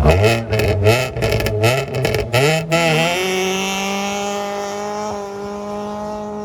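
Rally car accelerating hard away, its engine revving up and dropping through several quick gear changes with sharp cracks in the first few seconds. It then holds one steady note that slowly fades as the car draws away.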